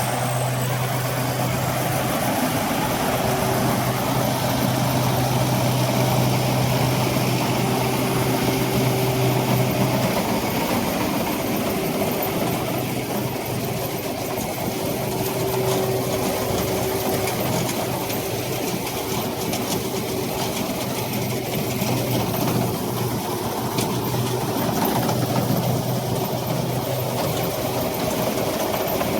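Rice combine harvester's engine running steadily, a continuous mechanical drone with a low hum that weakens about ten seconds in.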